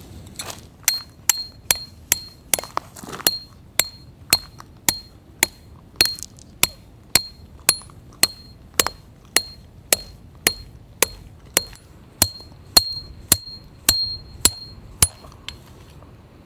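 A hammer striking metal at a steady pace, about two blows a second, each blow leaving a short high ring. This is typical of driving a steel tent stake.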